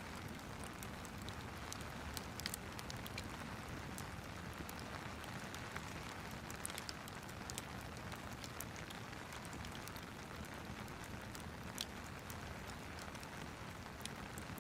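Rain and fireplace ambience: a steady hiss of rain with irregular sharp crackles and pops from the fire.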